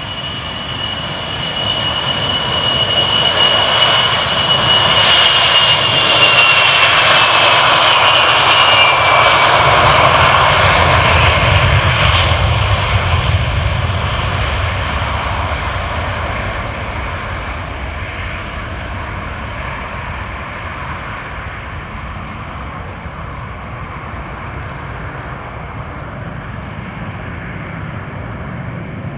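Ilyushin Il-76LL flying testbed passing by: its engine noise builds, peaks, then fades away. A high engine whine drops in pitch as it goes past.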